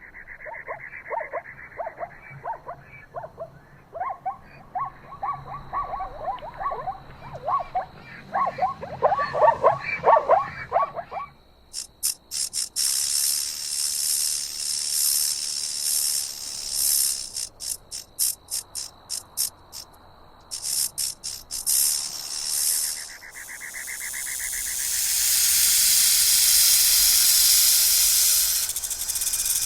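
Many short, quick animal calls for about the first eleven seconds. Then a snake hissing in a string of short bursts, turning into one long continuous hiss for the last several seconds.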